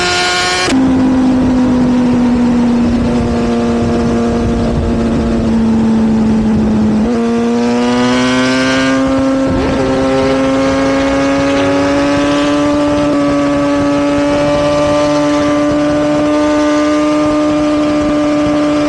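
Sportbike engine running at high revs. Its steady note drops suddenly about a second in, jumps back up at around seven seconds, then climbs slowly.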